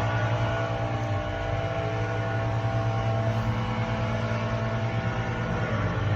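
Loud, steady engine or machinery noise: a constant low drone with a hum of overtones above it, holding steady without a break.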